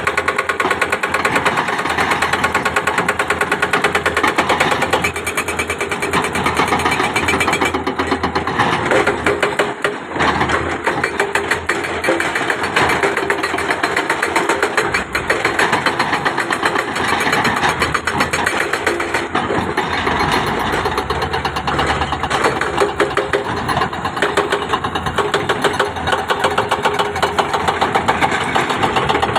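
Heavy construction machinery, an excavator's diesel, running steadily with a fast, even pulsing chatter.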